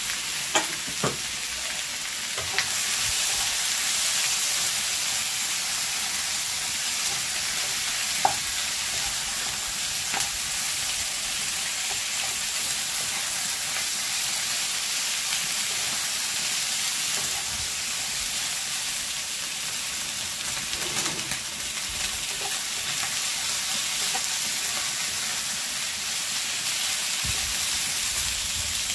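Chicken pieces frying and sizzling in a pot while being stirred, a steady hiss with a few light knocks near the start and one a little later.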